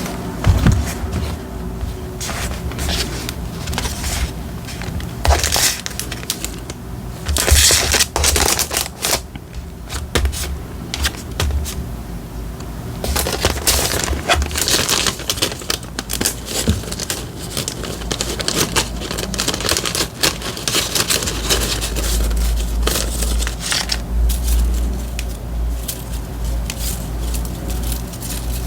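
Paper and stickers being handled for diary decorating: rustling, crinkling and many light taps and clicks on the desk. A low rumble comes and goes under it, longest in the last third.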